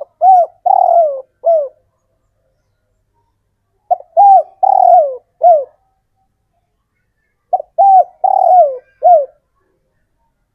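Male spotted dove cooing its advertising call: three phrases about every three and a half seconds, each a short lead-in note, a longer drawn coo and a final coo that falls in pitch. It is the call a male gives to draw in a female.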